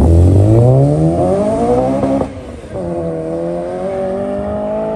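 Car engine accelerating hard: its pitch climbs steeply for about two seconds, drops at a gear change, then climbs again more slowly in the next gear.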